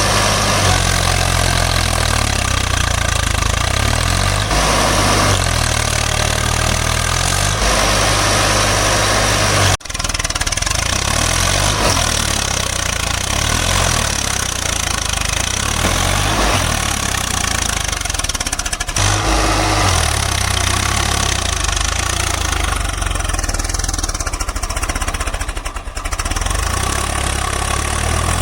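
Swaraj tractor's diesel engine running with a knocking clatter, its pitch and load shifting, with a brief break about ten seconds in.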